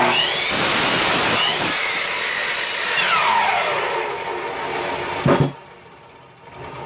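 Electric power saw running and cutting through a 2x4, loud for about five and a half seconds, then a knock and the saw winding down.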